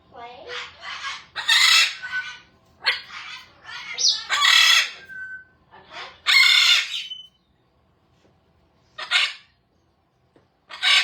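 Pet parrots squawking and screeching in a run of loud, harsh calls during the first seven seconds. After a quiet stretch of about two seconds come two more single screeches near the end.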